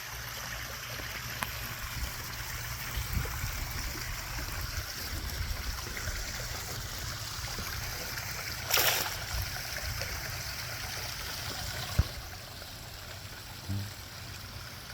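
Water running over a pond waterfall, a steady splashing stream. A brief louder splash about nine seconds in, and a sharp click about three seconds later.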